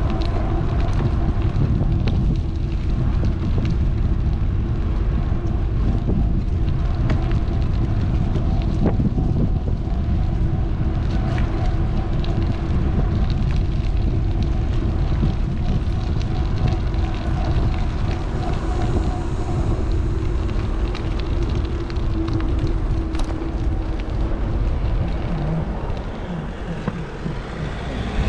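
Wind buffeting an action camera's microphone while riding an electric bike, a heavy low rumble, with small rattling clicks throughout. A steady hum runs underneath and fades out a little past the middle.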